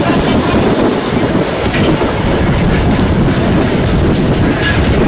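Passenger train coaches rolling along the track: a steady rumble of wheels on rail with a few short clicks, heard from an open coach window.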